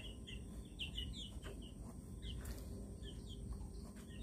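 Faint, quick, high-pitched bird chirps, several a second, over a low background hum.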